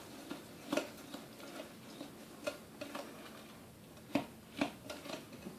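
A spoon stirring a thick mix of sugar, Karo syrup and raw peanuts in a Pyrex glass bowl, making scattered, irregular light clicks against the glass.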